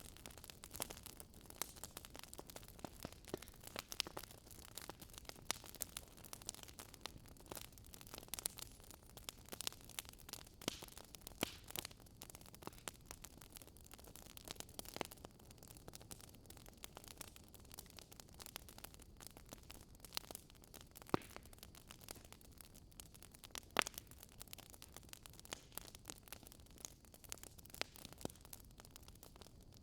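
Campfire crackling: irregular pops and snaps, a few louder than the rest, over a faint steady hiss of burning.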